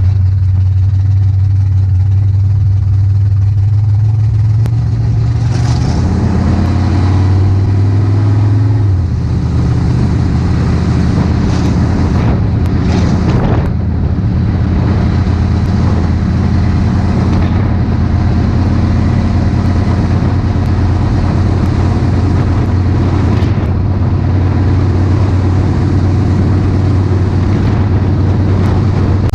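Car engine running loud and steady under way. About five seconds in its pitch climbs for a few seconds as it accelerates, then drops back and holds steady.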